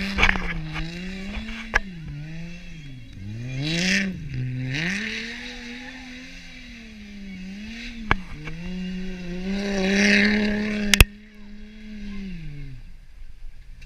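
Holden VS Commodore's supercharged 3.8-litre V6 revving hard during a burnout, the revs rising and falling over and over as the wheels spin in dirt and grass. A few sharp cracks cut through, the loudest near the end, and the engine dies away just before the end.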